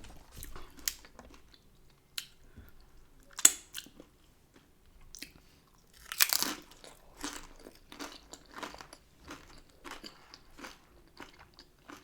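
A person biting into and chewing crunchy tortilla chips piled with toppings. There is a sharp crunch about three and a half seconds in and a louder, longer crunch about six seconds in, with quieter chewing crunches between.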